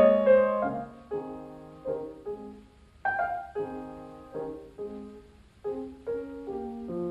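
Piano music: separate notes and chords, each struck and left to fade, played softly through the middle and building again near the end.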